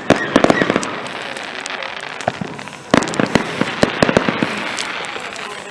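Fireworks going off: rapid crackling pops, a dense cluster right at the start and another beginning about three seconds in.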